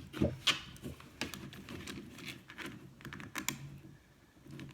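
Irregular light clicks and taps of small craft pieces being handled and set against a small clear plastic box, loudest in the first second.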